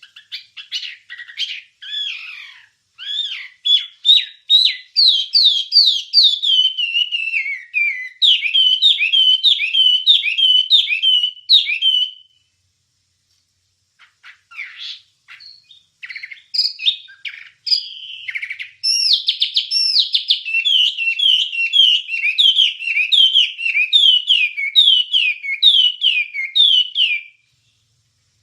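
A wambie bird singing: a fast song of repeated downward-slurred whistled notes, about three a second, in two long bouts with a pause of about two seconds near the middle.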